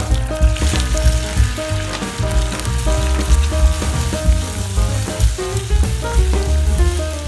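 Food sizzling and frying in a pan, with many small stirring ticks. Background music with steady notes and a regular bass line plays over it.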